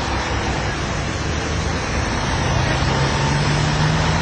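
Road traffic noise: a steady rush of a passing vehicle, with a low engine hum that grows louder past the middle.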